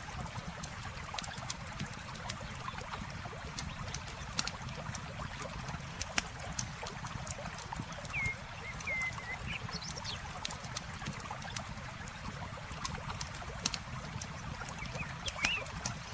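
Campfire crackling with scattered sharp pops over the steady rush of flowing river water. A bird chirps a few times about halfway through and again near the end.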